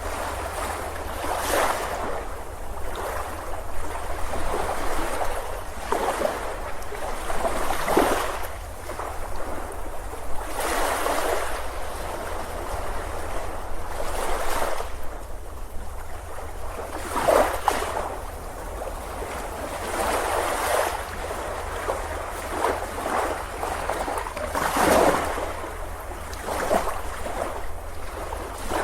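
Ocean waves breaking and washing up on a beach, the surf swelling and falling back every few seconds, over a steady low rumble.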